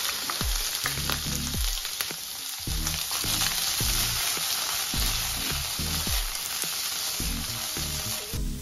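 Raw king prawns sizzling steadily in hot vegetable oil in a non-stick wok as they start to cook. The sizzle stops abruptly near the end.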